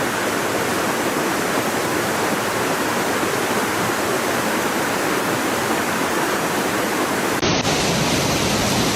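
Floodwater rushing steadily, a dense, even noise of fast-moving water. About seven and a half seconds in, the sound changes slightly, as if to another stretch of flowing water.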